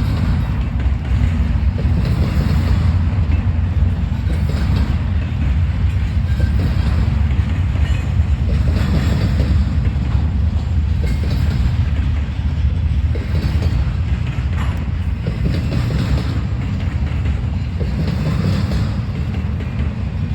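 Freight train cars rolling past at speed: a steady low rumble of steel wheels on rail, with repeated clacks as wheelsets cross rail joints.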